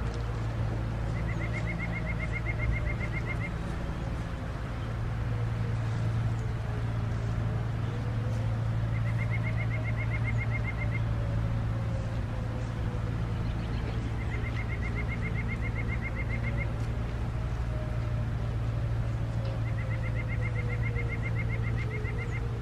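A songbird trilling four times, each rapid trill about two seconds long and evenly spaced, over a steady low hum. Behind it a faint distant outdoor warning siren, its pitch slowly rising and falling.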